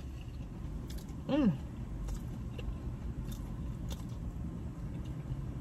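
Close-up chewing and crunching of a potato-coated Korean mozzarella corn dog: faint irregular crunches and mouth clicks, with one short hummed 'mm' about a second and a half in. A steady low hum runs underneath.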